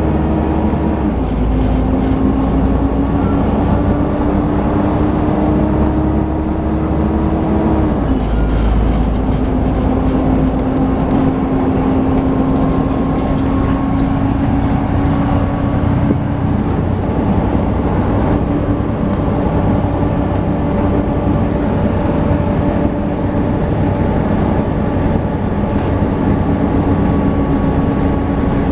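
Volvo B7TL double-decker bus's D7C diesel driveline on the move, with a strong "hoover" whine over the engine rumble. The whine drops at a gear change about a second in and again at about eight seconds, rising with speed in between and then climbing slowly.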